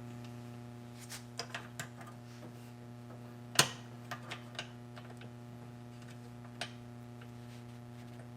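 Scattered small metal clicks and taps of a retaining clip being fitted onto a washer's clutch and brake assembly, with one sharper click about three and a half seconds in. A steady low hum runs underneath.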